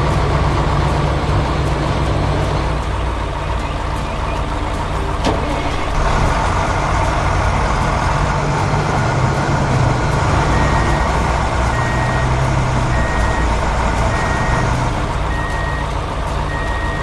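Heavy truck engine running steadily. From about ten seconds in, its reversing alarm beeps about once a second.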